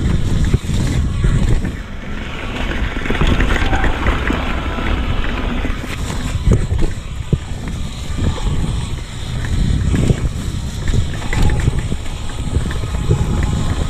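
Wind buffeting the microphone while a mountain bike rolls down a downhill dirt trail, with tyre noise and many short sharp knocks and rattles from the bike over the bumps.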